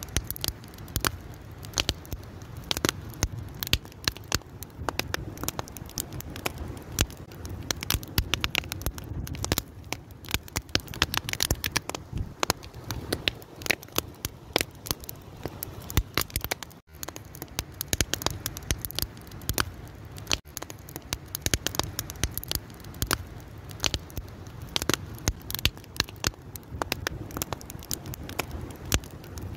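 Wood fire burning, crackling with many irregular sharp pops and snaps over a steady low rush.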